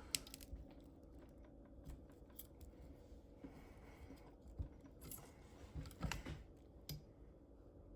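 Faint, scattered metallic clicks and clinks of hand tools and parts being worked on a cylinder head while fitting a valve spring compressor, with a sharp click just after the start and a small cluster of clicks about six seconds in.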